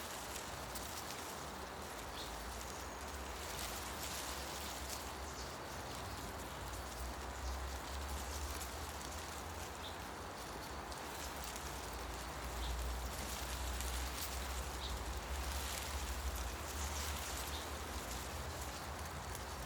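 Wind through forest trees: a steady rustle of leaves that swells with gusts, with a low wind rumble under it. A few faint short bird chirps come through.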